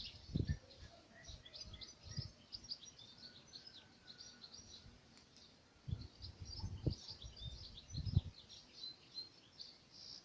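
Many small birds chirping and twittering without a break, with a few dull low thumps, one just after the start and three more in the second half.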